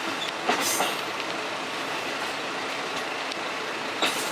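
KiHa 54 diesel railcar running along the line, heard from inside the car: a steady rumble of wheels on rail, with two louder clacks, about half a second in and near the end.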